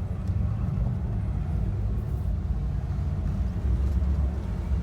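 Steady low rumble of a 1959 Imperial's V8 running.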